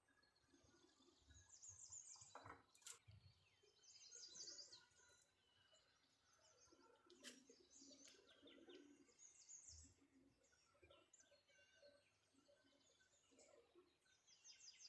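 Faint birds chirping in short trills every few seconds, with a few soft clicks.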